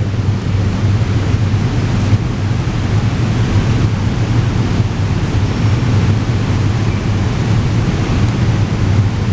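A SEPTA Regional Rail train running through the station: a steady loud rush of noise over a low, even hum.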